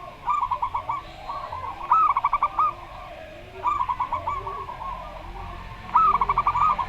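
Zebra doves (perkutut) calling: four quick staccato phrases of rapid cooing notes, each a run of about eight short notes. Faint lower coos sound beneath them.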